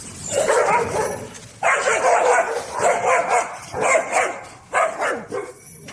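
A dog barking in a run of about five separate bursts, each under a second long.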